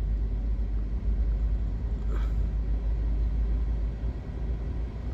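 Maruti Suzuki Ignis 1.2-litre four-cylinder engine idling on CNG at about 1000 rpm, heard from inside the cabin as a steady low rumble. The AC compressor is switched off, and the idle holds steady: the driver puts the wandering rpm down to the compressor's load.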